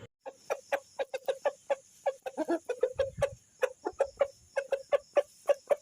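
Chicken clucking: a quick, uneven run of short clucks, several a second.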